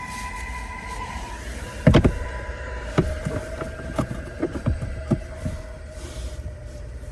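Film soundtrack playing: steady ringing tones with a heavy knock about two seconds in, then several sharp metallic clanks, like a subway train.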